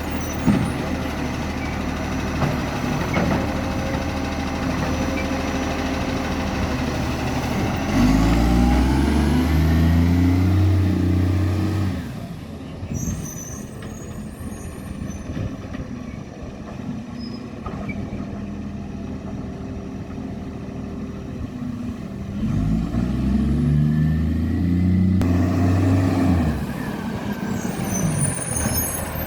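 Garbage truck's diesel engine with a bad exhaust leak, running steadily and revving up hard twice for about four seconds each. Short air-brake hisses come near the start and the end.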